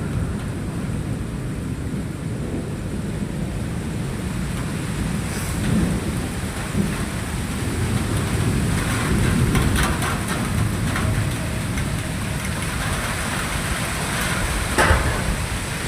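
Thunder rumbling continuously during steady rain, with scattered raindrop ticks and a sharper tap near the end.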